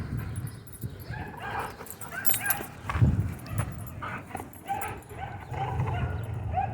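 Dogs barking and yipping in many short, high calls, some whining, one after another.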